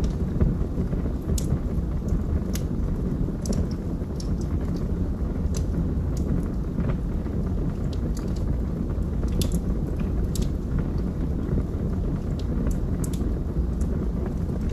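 Log fire burning in a fireplace: a steady low rumble of flames with scattered sharp crackles and pops from the burning logs.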